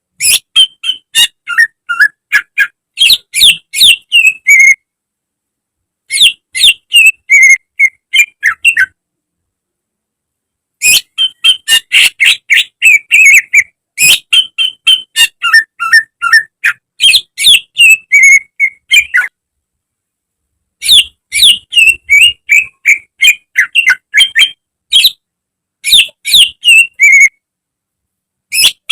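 Cucak ijo (green leafbird) singing a fast, varied run of sharp whistled and chirping notes, in phrases of several seconds broken by pauses of a second or two of dead silence.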